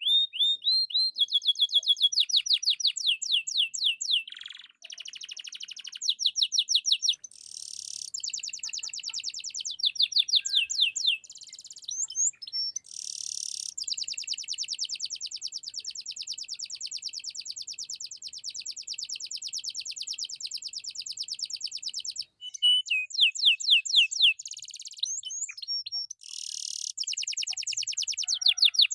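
Domestic canary singing a long, loud song of fast trills and rapidly repeated notes. In the middle it holds one dense, buzzing trill for about eight seconds.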